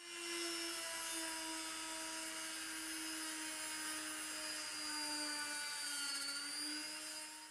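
A small electric motor, such as a rotary tool or drill, spinning at a steady speed with a high whine; its pitch sags slightly about six seconds in and recovers, and the sound starts and cuts off abruptly.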